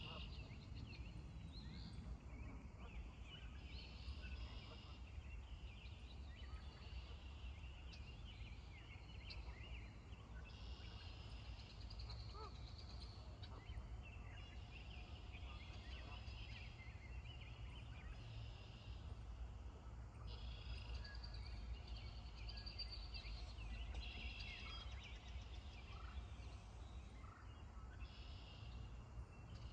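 Faint bird calls, short high-pitched phrases repeating every few seconds, over a steady low rumble.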